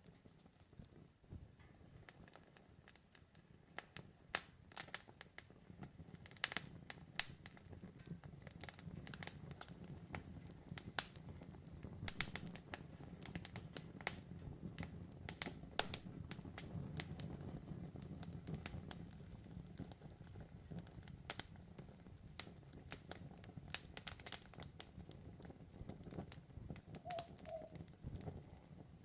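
Campfire burning: wood crackling and popping in sharp, irregular snaps over a low, steady rumble of the flames.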